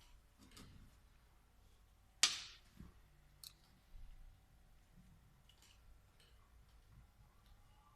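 Tools and small metal parts being handled: one sharp clack about two seconds in, then a few lighter clicks.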